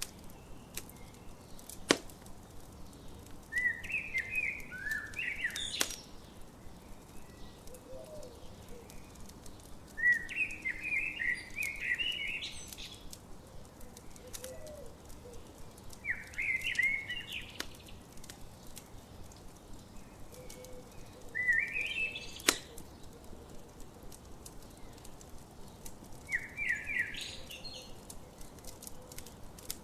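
A songbird singing a short, chirping phrase about every five or six seconds, over a campfire crackling steadily with a few sharp, louder pops.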